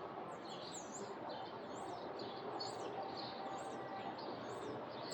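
Small songbird chirping over and over, a short high note about twice a second, over a steady outdoor hiss.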